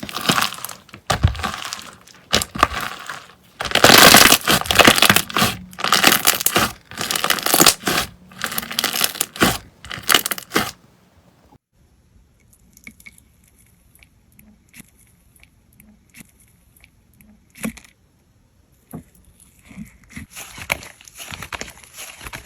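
Slime being squeezed and stretched by hand, giving dense crackling and popping for about the first ten seconds. It then goes mostly quiet with a few faint clicks, and the crackling starts again near the end.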